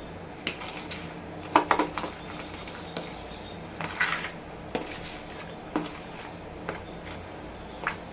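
Kitchen dishes and a utensil clinking and knocking in scattered, irregular strikes, the sharpest cluster about one and a half seconds in, over a faint steady hum.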